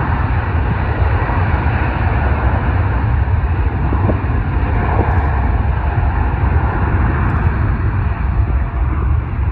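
Jet airliner engine noise, a loud steady rumble.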